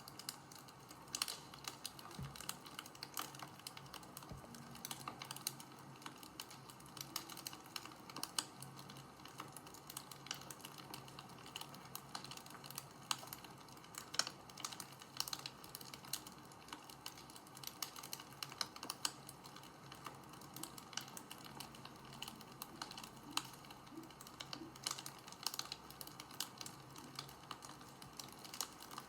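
Wood fire crackling, with irregular sharp snaps and pops over a faint steady hiss.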